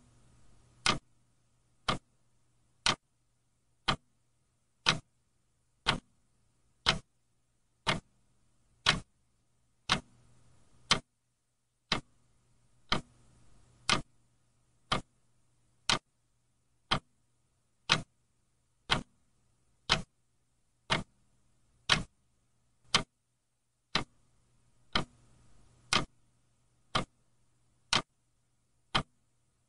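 Clock ticking steadily at one tick per second, each tick a sharp click.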